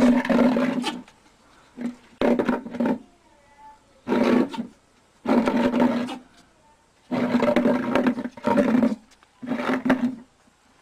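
An animal calling loudly over and over, about seven calls, each lasting up to a second at a steady low pitch, with short pauses between.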